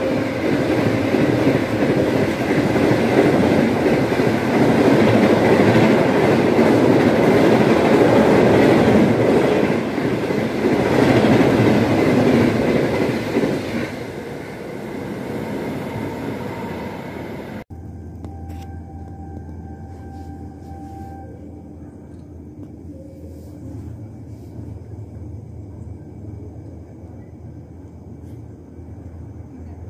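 Passenger train's coaches passing at speed alongside the platform, a loud rushing rattle of wheels on rail that fades away after about thirteen seconds. Then the sound drops suddenly to quieter station background with a low hum and a faint steady high tone that comes and goes.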